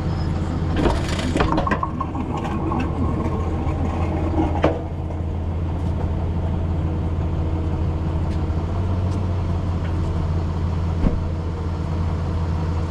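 Tow truck engine running steadily, with short metallic clanks and creaks of the lift gear about a second in and again near five seconds, and a single sharp click later on.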